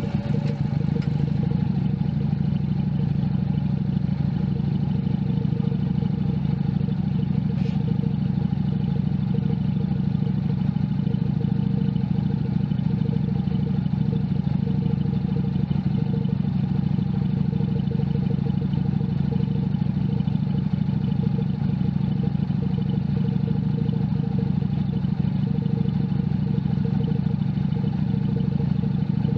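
Junak M11 Cafe's 125 cc single-cylinder engine running at a steady engine speed, its pitch holding constant throughout.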